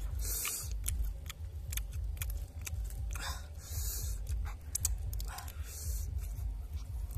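Cooked crabs being pulled apart and eaten by hand: sharp clicks of shell cracking and chewing, with a few short hissing sounds. A steady low rumble runs underneath.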